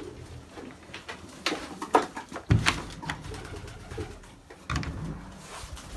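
Domestic racing pigeons cooing in a small loft, with low pulsing coos swelling up about halfway through and again near the end. A few sharp knocks sound in the first half.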